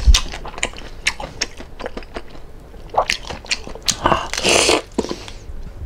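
Chewing and biting into crispy lechon kawali (deep-fried pork belly), a run of sharp, irregular crunches, with a brief hissing rush about four seconds in.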